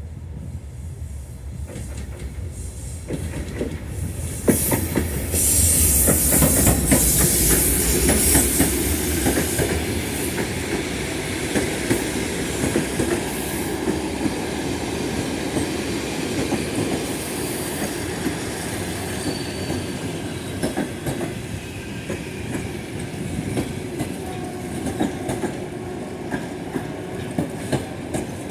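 TEP33A diesel locomotive passing at the head of a passenger train. Its engine rumble and a hiss build to their loudest about five seconds in, then the coaches roll by with a steady clickety-clack of wheels over rail joints.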